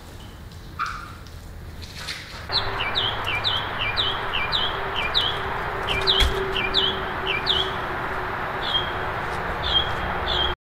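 A small songbird chirping again and again, quick downward-sliding chirps about two a second, over a steady outdoor hiss that starts about two and a half seconds in. All sound cuts off suddenly near the end.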